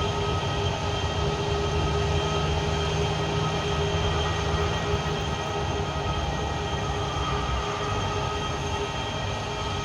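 Airliner engines running steadily: a constant whine with several held tones over a low rumble.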